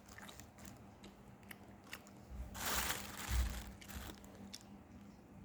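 Close-up chewing of sausage, with small wet clicks and a louder crunching bite about halfway through.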